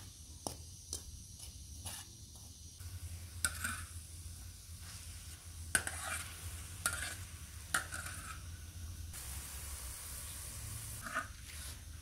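Sliced mushrooms sizzling in oil on a large round steel griddle while a metal spoon stirs them, scraping and clinking against the metal several times. The sizzling starts about three seconds in, after a few light clicks.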